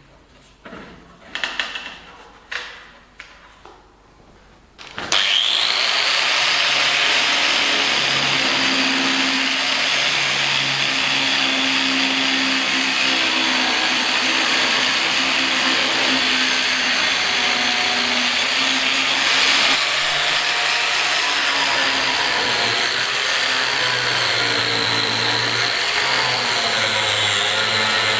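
A few light knocks, then about five seconds in a handheld power tool starts abruptly and runs steadily. Its high whine sags slightly in pitch near the end.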